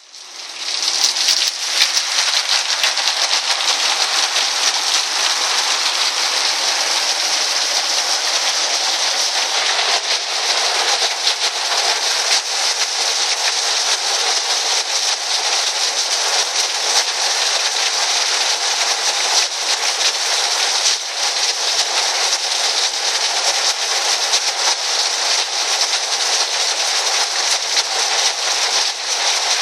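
Heavy rain falling on a tin roof: a dense, steady hiss of drops with many fine ticks, rising in over the first second.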